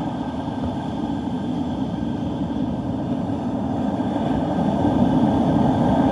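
Steady wind rumbling against the microphone on the beach, with a rushing noise that grows a little louder near the end.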